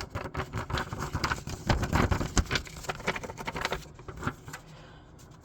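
Paper handled close to the microphone: a dense run of small crackles and taps for about four seconds, then quieter.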